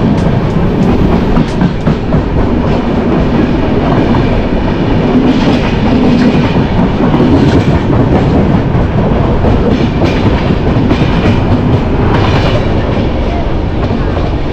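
Rail noise of a passenger train running past close alongside: a loud, steady rush and clatter of wheels on track, heard from an open coach doorway.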